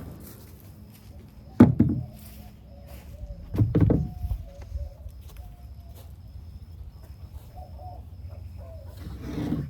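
A few knocks of wood being handled and struck: one sharp knock about one and a half seconds in, a rougher cluster near four seconds and a softer one near the end, with chickens clucking quietly throughout.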